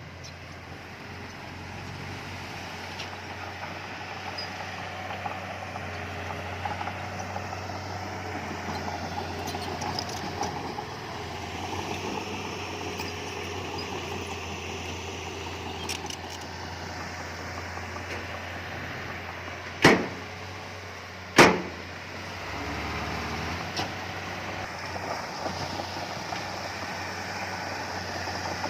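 Heavy earthmoving machinery running steadily with a continuous engine hum. Two loud bangs come about a second and a half apart, around two-thirds of the way through.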